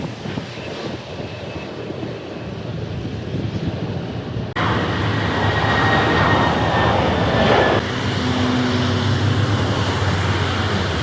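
Jet airliner engines on a landing pass, heard as a steady broad rush with a faint whine. About halfway through the sound cuts abruptly to a louder, brighter passage of the same jet noise with high whining tones.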